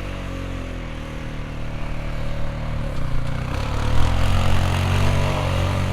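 A vehicle engine running, getting louder and shifting in pitch about three to four seconds in.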